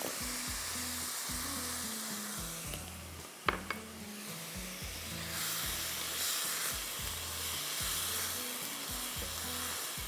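Chopped onions, mushrooms and chicken sausage sizzling in sauce in a nonstick frying pan as they are stirred with a silicone spatula. The sizzle grows louder in the second half, and there is one sharp knock about three and a half seconds in.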